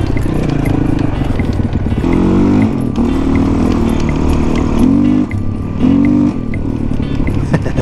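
Honda CRF450 dirt bike's single-cylinder four-stroke engine running as it is ridden, the pitch rising with the throttle about two seconds in and again twice around five to six seconds, with a short dip in between when the throttle comes off.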